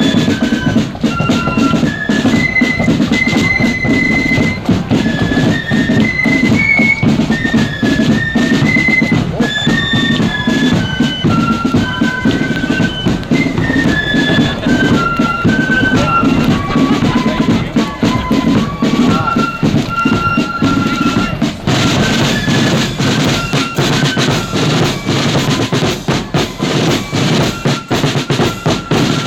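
Marching flute band playing a tune: a high flute melody moving step by step over snare drums and a pounding bass drum.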